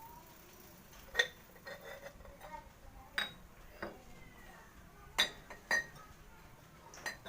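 Small metal pieces being handled and set down, giving a series of sharp clinks a second or two apart, each with a brief ring.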